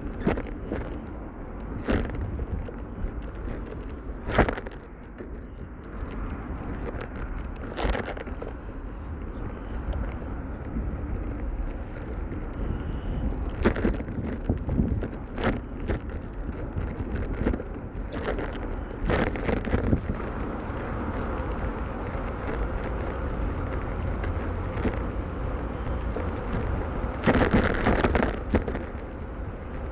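Riding noise from a bicycle on a road: a steady low rumble with sharp knocks every few seconds, and a louder cluster of knocks near the end.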